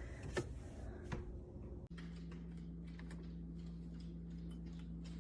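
Keurig K-Duo Plus coffee maker: a couple of light clicks as its parts are handled, then a steady low hum starts abruptly about two seconds in, with faint ticking over it.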